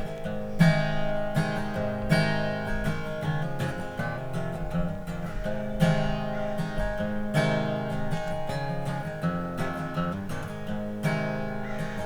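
Acoustic guitar strummed in a steady rhythm: an instrumental passage between the sung lines of a song.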